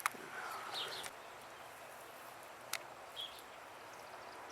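A few short bird chirps over a faint, steady woodland hiss, broken by three sharp clicks spaced about a second or more apart.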